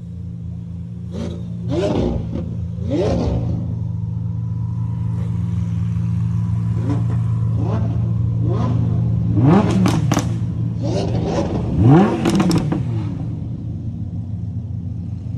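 Lamborghini supercar engines idling with a steady low drone, while several are blipped in a series of sharp revs that rise and fall, the loudest around ten and twelve seconds in.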